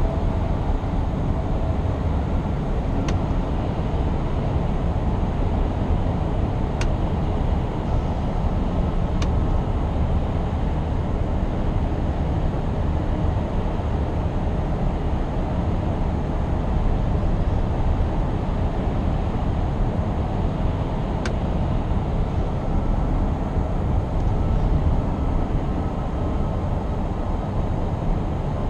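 Scania R520's 16-litre V8 diesel running steadily under way, with its low rumble blended with tyre and road noise. A few faint sharp ticks are scattered through it.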